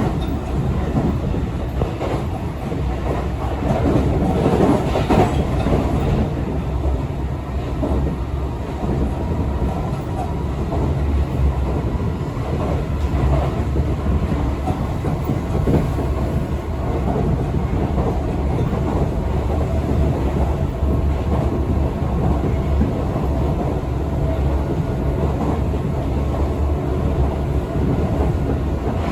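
Tobu Skytree Line express train running steadily, heard from inside the car: a constant rumble of wheels on rail with occasional clicks over the rail joints.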